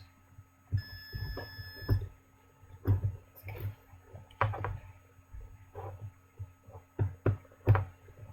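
An electronic buzzer on a breadboard circuit beeps with one steady high tone for about a second, then stops. After it come a string of clicks and knocks as parts and wires are pulled out of and pressed into the breadboard.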